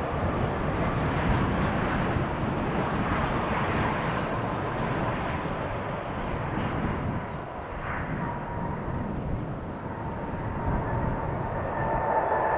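Jet airliner engines running: a steady broad rumble with a thin whine on top. Both dip slightly in the middle and grow louder near the end, when the whine strengthens.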